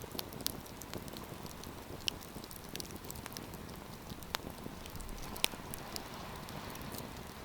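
Wood campfire crackling: a steady hiss with scattered sharp pops, the loudest about five seconds in.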